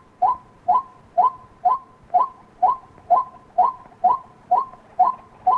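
White-breasted waterhen giving a steady series of short, evenly spaced call notes, about two a second.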